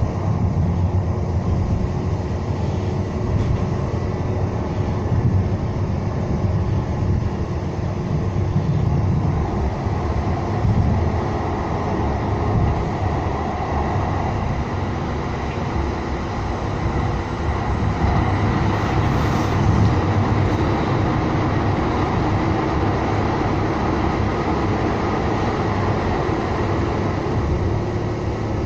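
Siemens-Duewag U2 light-rail car running along the track: a steady low rumble of wheels and running gear, with a faint steady whine over it.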